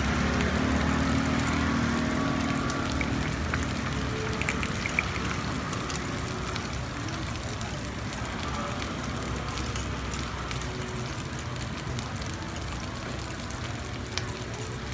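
Takoyaki frying in the oiled wells of a takoyaki griddle: a steady sizzle, with a few sharp clicks of metal picks against the pan as the balls are turned.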